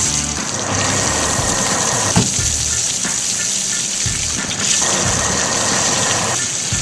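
Cartoon soundtrack: a steady rushing hiss over a low engine hum, with background music.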